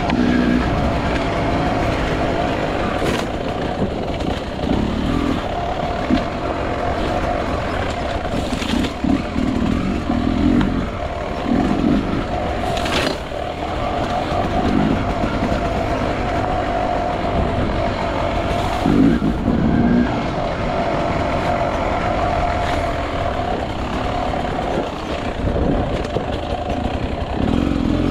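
Enduro motorcycle engine running steadily while being ridden, with short irregular surges in engine note.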